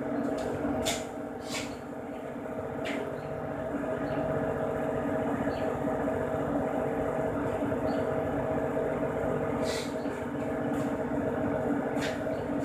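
Steady mechanical hum with a few sharp clicks scattered through it.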